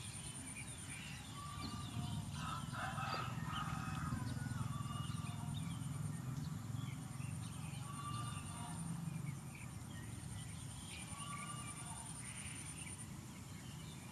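Several birds chirping and calling in short, repeated notes, over a low steady rumble.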